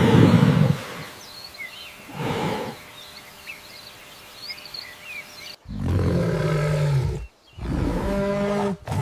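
Two deep animal roars about two seconds apart, with birds chirping faintly behind. After abrupt cuts, longer calls held at a steady pitch follow.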